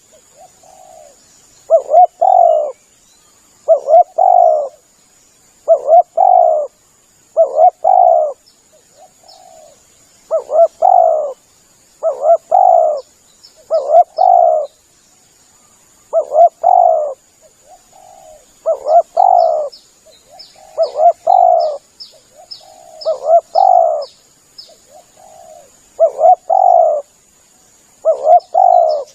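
Spotted dove cooing, a short phrase repeated about every two seconds; a lure call for catching spotted doves. Faint high chirps of small birds sound above it.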